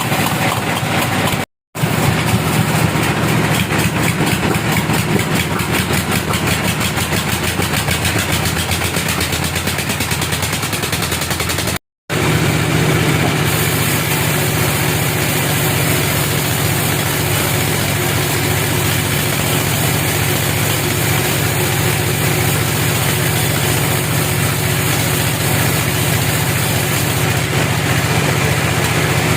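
Engine-driven sawmill machinery running steadily with a fast, even pulse, broken twice by a split-second silence.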